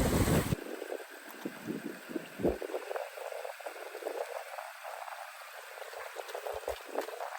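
Water gurgling and trickling with small irregular pops and crackles, after a loud low rumble cuts off about half a second in.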